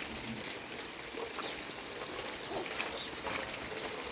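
Steady rain and running water, an even hiss, with a few faint short chirps over it.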